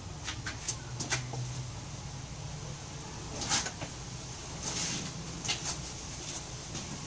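Subaru BRZ's 2.0-litre flat-four boxer engine idling on its stock exhaust just after a cold start, a steady low rumble. Several sharp clicks sound over it, the loudest about three and a half seconds in.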